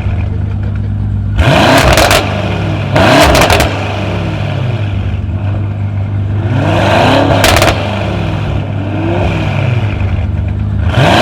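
Tuned car engine idling and revved hard in four quick blips plus one small one, its pitch climbing and dropping each time, with sharp exhaust cracks during the revs.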